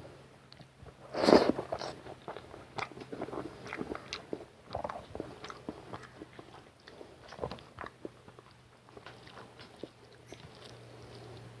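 A person eating rice and curry close to the microphone: a louder mouthful about a second in, then a run of small, irregular chewing clicks and mouth sounds.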